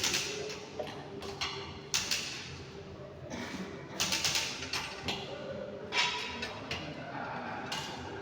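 Hand tools clanking and knocking at a workshop bench, a sudden knock about every two seconds that rings on briefly, over a low background murmur.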